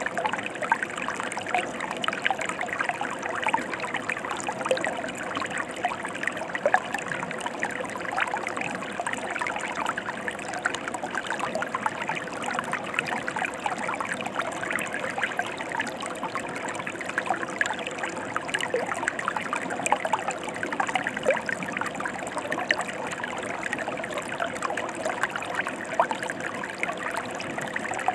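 Mountain stream flowing: a continuous even rush of water with many small splashes and trickles through it.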